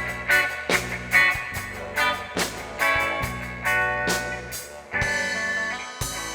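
Live reggae band playing an instrumental passage: guitar lines over a steady bass and drum rhythm, with no singing.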